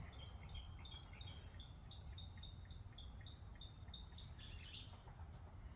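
Faint run of short, high chirps, about three a second, from a bird or insect, fading out about four and a half seconds in, over a low steady outdoor rumble.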